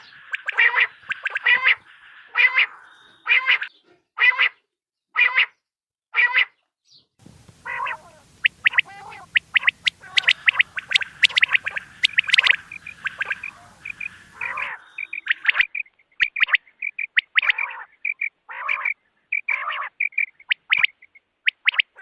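Quail calls from a hunting lure recording: first a run of harsh calls repeated about once a second, then a busier run of quick notes over a low hum, then scattered sharper calls. The hum starts and stops abruptly between the runs, as if separate recordings are spliced together.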